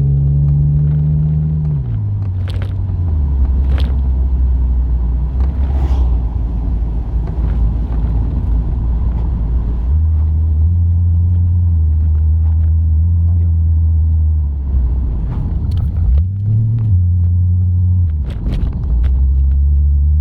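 BMW E36 328's inline-six running through a MagnaFlow muffler while driving, a steady low exhaust drone. Its pitch drops at a gear change about two seconds in, climbs again about halfway through, and dips at another shift near the end, with a few sharp knocks in between.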